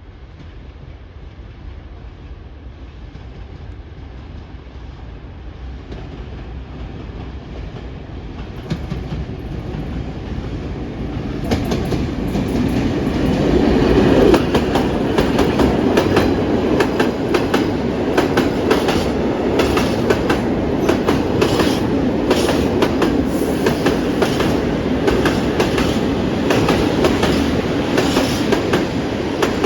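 A train approaching, growing steadily louder for about twelve seconds, then passing close by with its wheels clicking rhythmically over the rail joints.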